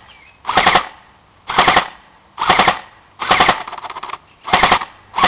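SRC M4 electric airsoft gun with an Extreme Fire programmable MOSFET trigger computer firing in short rapid bursts of a few shots each, about one burst a second, the fourth one longer, with a longer string starting right at the end.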